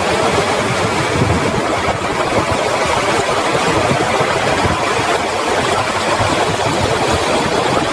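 Heavy rain pouring steadily, a dense, unbroken patter of drops.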